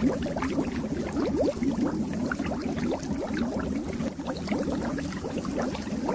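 Fish tank water bubbling: a dense, continuous stream of small bubbles making many quick rising blips over a steady low hum.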